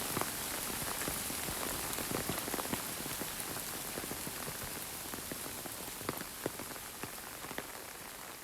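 Rain falling steadily, with single drops ticking sharply close by, gradually getting quieter.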